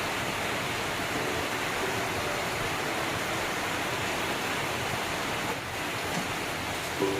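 Heavy rain falling, a steady dense hiss, with faint background music notes about a second in and again near the end.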